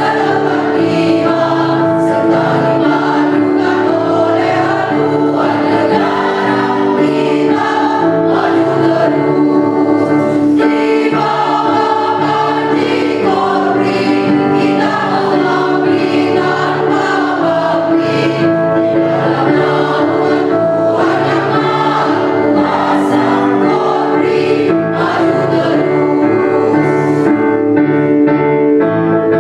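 A choir singing a march song, with sustained notes over a lower part that steps from note to note.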